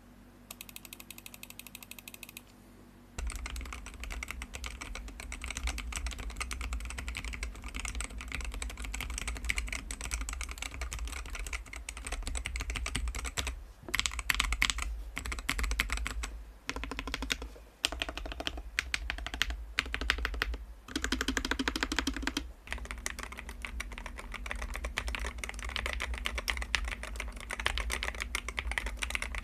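Hall-effect magnetic-switch mechanical keyboard being typed on fast. It opens with a short run of quick, evenly spaced clicks, then goes into steady dense typing with a few brief pauses.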